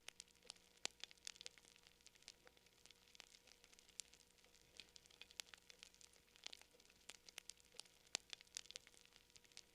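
Wood fire crackling: irregular sharp snaps and pops, several a second and some louder than others, over a faint hiss.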